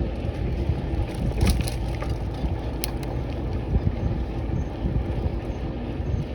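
Bicycle tyres rolling over a rough, gritty path, with wind buffeting the microphone. Scattered sharp clicks and crackles come from grit under the tyres.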